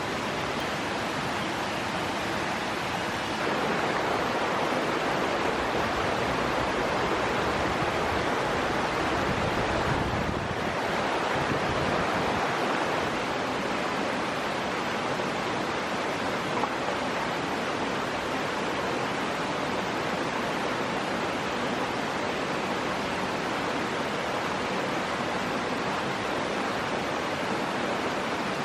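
Stream water rushing steadily, growing a little louder a few seconds in.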